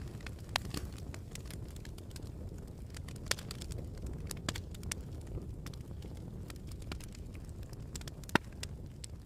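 Campfire crackling: a steady low rumble from the burning wood with scattered sharp pops and snaps, the loudest a single crack about eight seconds in.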